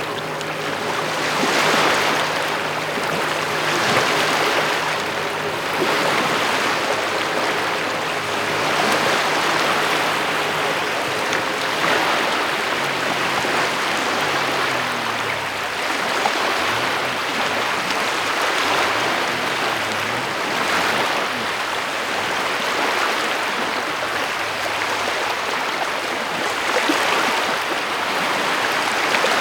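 Rain and lake water washing on a beach: a steady hiss that swells softly about every two seconds, with a faint low hum beneath it in the first half.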